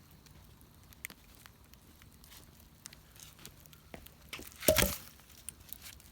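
Wood bonfire crackling, with scattered sharp pops and snaps and one louder burst of crackling a little under five seconds in.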